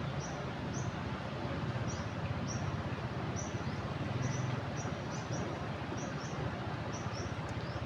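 Steady rushing of fast-flowing floodwater, with a bird's short high chirps repeating irregularly, about twice a second.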